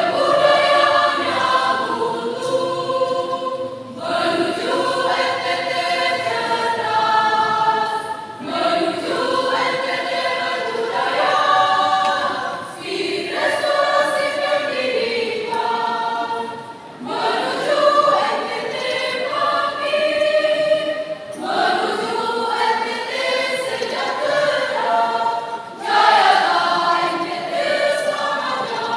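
A mixed school choir singing in parts, in sustained phrases of a few seconds each with short breaths between them.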